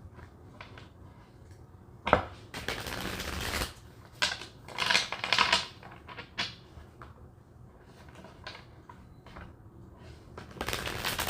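Tarot cards being shuffled and handled, in several short bursts of rustling and flicking, with a sharp tap about two seconds in.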